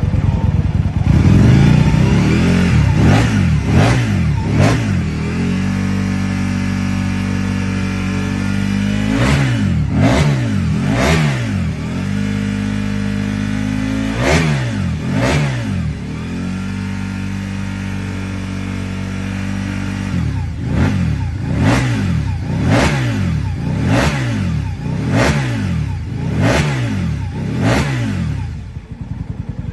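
1999 Aprilia RSV Mille SP's V-twin engine revved in short throttle blips, settling back to a steady idle between them. A fast run of repeated blips comes in the last third, after which the engine drops back to a quieter idle.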